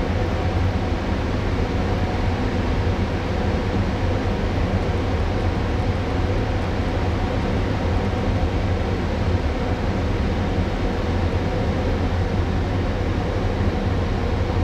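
Steady low hum and hiss of a moored passenger ship's onboard machinery and ventilation running, heard inside the ship with no change throughout.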